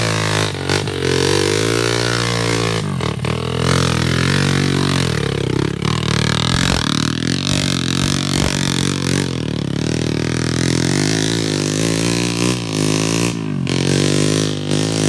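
Enduro dirt bike engine running at low revs on the trail, its pitch rising and falling with throttle changes.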